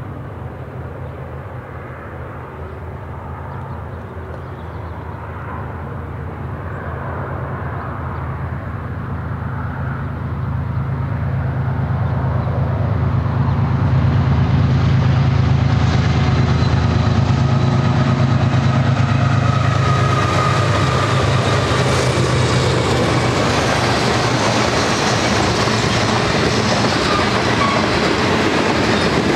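A BNSF freight train approaching and passing, led by GE ES44AC diesel locomotives. Their low engine drone grows louder through the first half, then gives way to the steady rumble and clatter of the freight cars' wheels on the rails.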